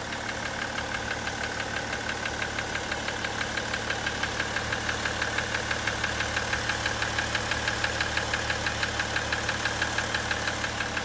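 BMW M57N 3.0-litre straight-six turbodiesel idling with a rapid, regular knock from one cylinder. The owner traced the knock to a piston, not the injectors: a sign of serious engine damage.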